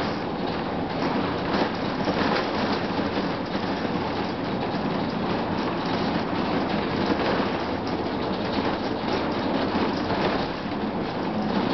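Steady drone inside a 2004 Gillig Phantom transit bus, its Cummins ISM diesel running and the HVAC on, with continuous rattling and clicking from the body and fittings.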